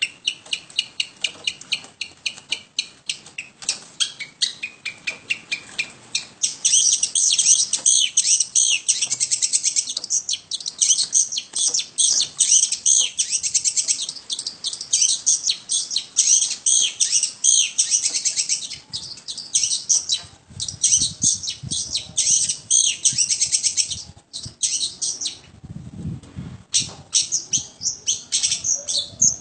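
Long-tailed shrike singing on and on in rapid runs of fast, chattering high notes. The song is densest from about six to nineteen seconds in and breaks into shorter phrases with brief pauses after that.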